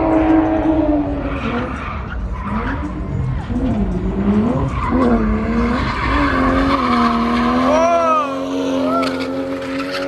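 Car tires squealing as a car drifts or spins in the pit, a drawn-out screech whose pitch wavers and bends up and down, with sharper rising-and-falling chirps near the end.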